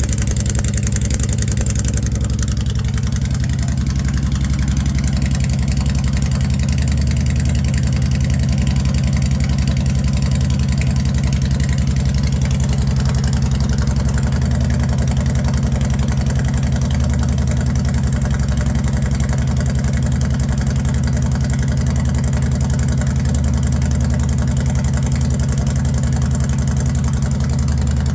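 Honda Fury 1300's V-twin engine idling steadily on a cold start, still warming up.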